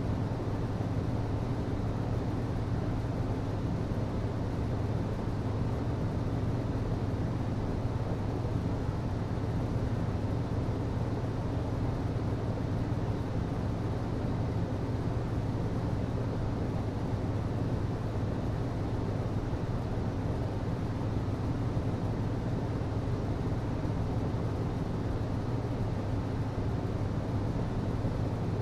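HVAC system running: a steady low hum with a constant rush of air, unchanging throughout.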